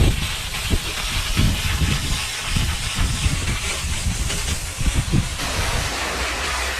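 Car wash equipment hissing steadily, with irregular low thumps through the first five seconds or so.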